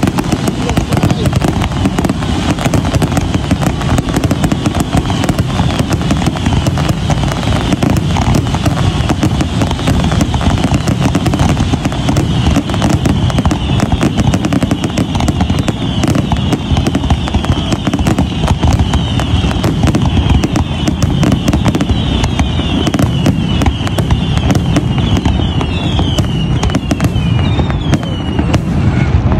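Fireworks going off in a rapid, unbroken barrage of crackling bangs, with high falling whistles in the second half.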